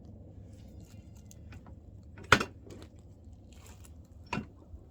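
Two sharp clicks or knocks over a low steady hum: a loud one a little past halfway and a weaker one near the end.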